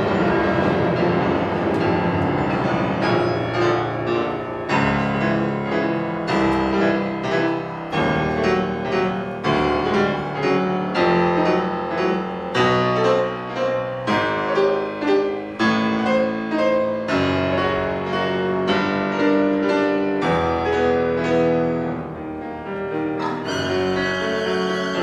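Live classical music: a piano plays a long run of separate struck chords against a string orchestra, and the violins come in strongly near the end.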